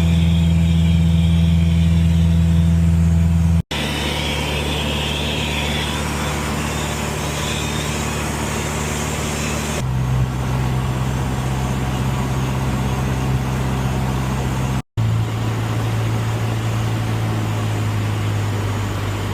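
Cessna 150's four-cylinder engine and propeller droning steadily, heard inside the cockpit. The drone is cut off briefly twice, at about 4 s and 15 s in, and its note comes back at a different pitch after each cut. It drops again about 10 s in.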